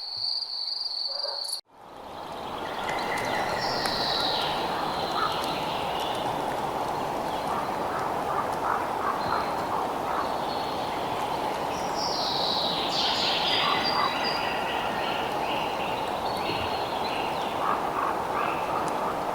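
Crickets trilling steadily in a high pulsing tone, cut off abruptly within the first two seconds. After a moment of silence a night-time nature ambience fades in: a steady rushing hiss with repeated descending whistled calls and scattered short chirps from birds or frogs.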